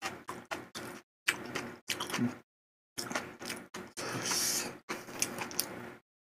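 Close-miked wet chewing of malatang, in short separate bursts: a quick run of about four a second at first, then longer, hissier stretches.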